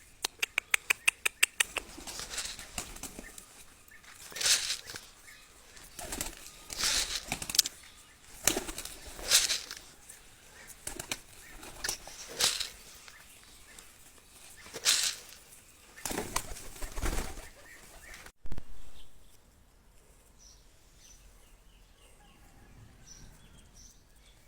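Pigeon wings flapping, starting with a quick run of sharp claps and then coming in irregular bursts. Past the middle the flapping stops and only faint bird chirps remain.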